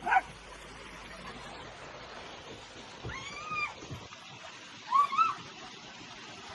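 A cat meowing: one drawn-out meow that rises and falls about three seconds in, then two short meows about five seconds in.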